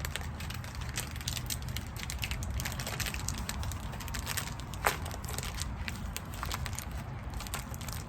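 Plastic snack wrapper crinkling and crackling in the hands as a small packet of honey chips is worked at and pulled to open it, with a sharper snap about five seconds in.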